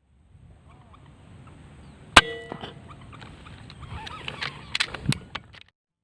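A single sharp shot from a PCP air rifle about two seconds in, with a short metallic ring after it, followed by a few scattered clicks and knocks.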